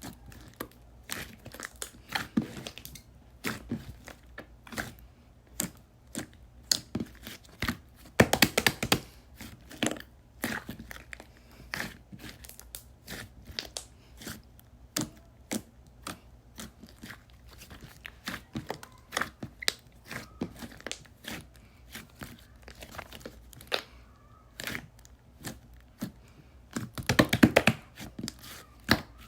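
Hands squeezing, poking and stretching slime: a stream of small sticky clicks and crackles, with two denser, louder runs of crackling, about eight seconds in and near the end.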